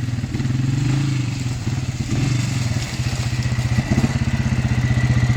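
Quad bike engine running steadily as it is ridden, a little louder from about four seconds in.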